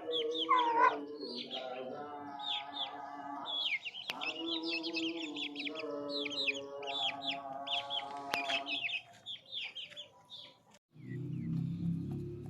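Several aseel roosters crowing, long overlapping crows one after another, while small birds chirp throughout. A low rumble takes over near the end.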